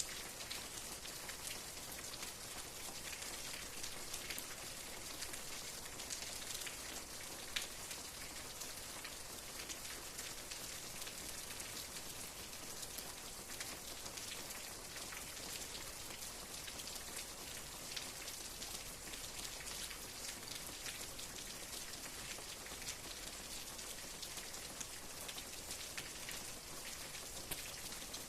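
Steady rain with many small drops pattering on a surface, a fine hiss with distinct drop ticks and no change in intensity.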